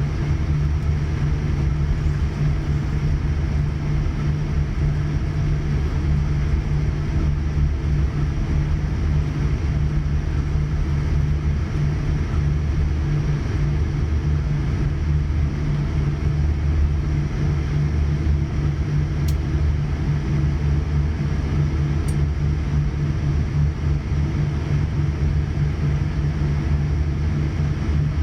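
Cabin noise inside a Boeing 787-9 airliner: a steady low rumble from the Rolls-Royce Trent 1000 engines and airframe, holding an even level.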